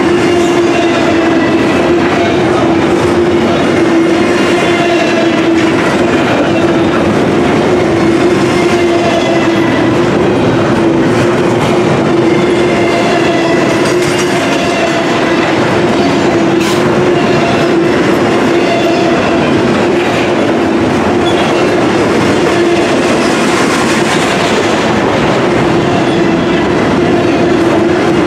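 Double-stack intermodal container well cars rolling past at a steady speed: a continuous, loud noise of steel wheels on rail, with a steady tone running underneath.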